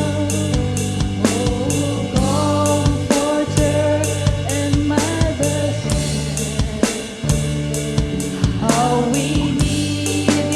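Live worship band playing a slow song, with drum kit keeping a steady beat under bass and keys and a sung melody line.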